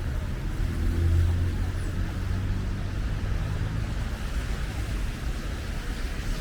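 Street traffic on a wet road: a vehicle's engine hum swells about a second in and fades, over a steady hiss of tyres on wet asphalt.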